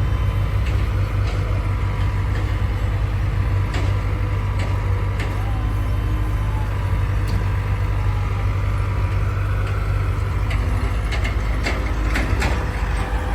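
Heavy diesel engine running steadily at a constant speed, with scattered short knocks and clanks over it.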